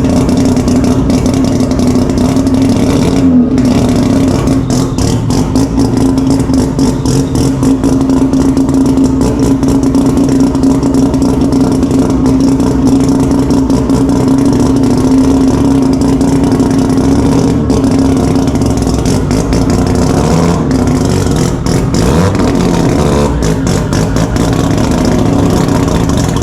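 A car engine running loud, held at a steady high pitch for a long stretch, with a rapid crackling clatter over it.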